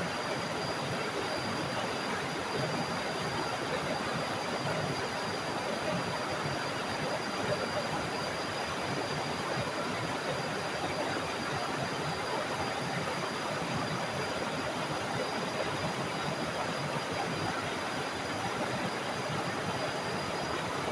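Small forest waterfall splashing: a steady, even rush of falling water.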